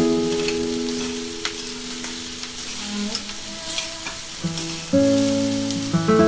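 Pineapple fried rice sizzling in a stainless steel frying pan as it is stirred with a spoon, with light clicks of the spoon against the pan. Background music with held notes plays over it.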